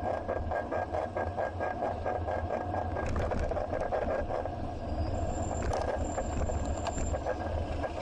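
Bicycle in motion, with a steady rumble and rattling from the road. A rhythmic pulsing of about four to five beats a second runs for the first three seconds. After that come scattered sharp clicks and a brief thin high tone.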